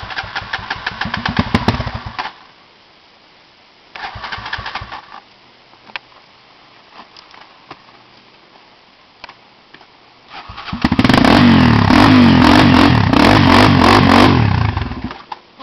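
Off-road motorcycle engine revving. There is a burst of about two seconds at the start and a shorter one about four seconds in, then a loud sustained run of about four seconds near the end.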